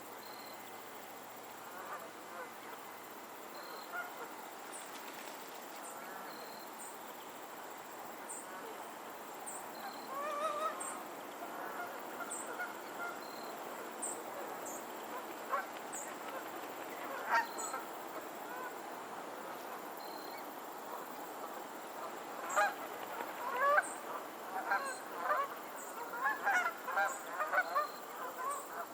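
Geese honking: scattered single honks at first, building into a busier, overlapping run of honking in the last several seconds.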